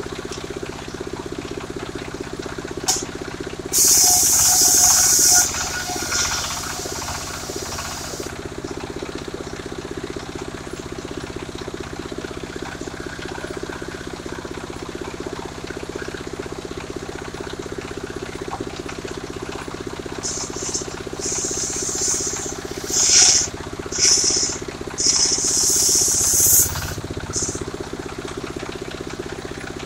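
Portable circular sawmill running: its engine holds a steady hum, and the circular saw blade cuts through sengon wood in loud hissing bursts, once a few seconds in and several times in quick succession later on.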